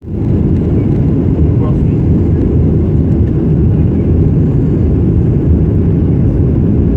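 Airliner cabin noise: a loud, steady low rumble of engines and airflow heard from inside the passenger cabin.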